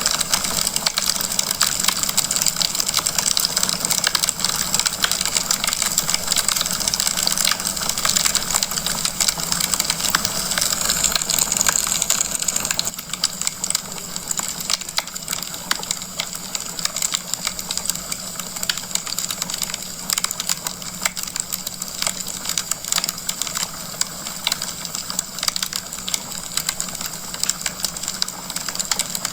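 Wood fire burning in a fireplace: a dense, irregular run of crackles and pops over a steady hiss, which drops a little about 13 seconds in.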